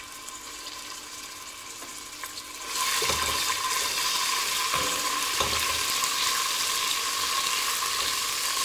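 Minced ginger frying in hot oil in a stainless steel pot: faint at first, then sizzling loudly from a little under three seconds in. A few soft knocks of a wooden spoon stirring in the pot.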